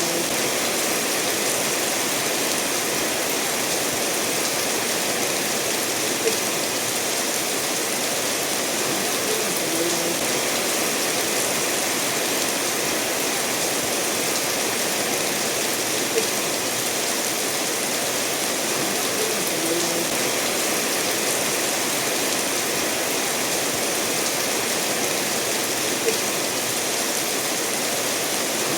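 Steady rain falling together with a stream running over stones: an even, unbroken hiss. Three brief, slightly louder taps stand out, about ten seconds apart.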